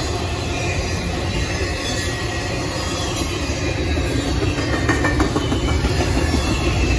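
Double-stack intermodal freight train rolling past: a steady rumble of wagon wheels on the rails, with faint high wheel squeal and a short run of clicks about five seconds in.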